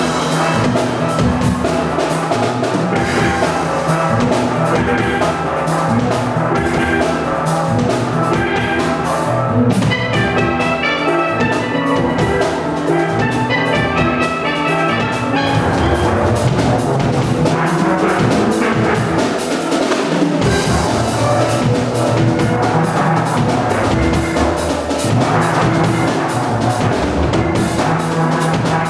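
Steel orchestra playing live: a band of steel pans carrying a quick melody over a drum beat.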